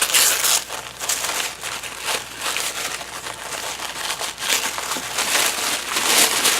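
Packaging crinkling as it is handled, in a series of irregular bursts, loudest at the start and again near the end.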